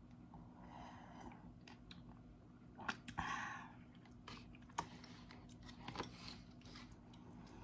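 Close-miked mouth sounds of eating instant noodles: quiet chewing, with a few sharp clicks and short noisy bursts.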